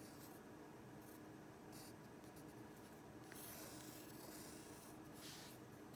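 Faint writing strokes on paper, a few soft scratchy passes spread through the quiet, as letters are written on a chart.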